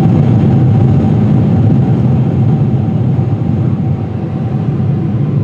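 Cabin noise inside a Boeing 747-400 airliner still climbing toward cruise: a steady rush of airflow and engine drone, with a faint steady hum on top.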